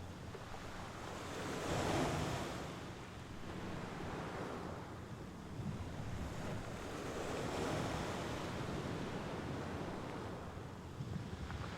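Mediterranean Sea waves washing onto the shore. The surf swells and falls back in several surges, the loudest about two seconds in and another around the middle.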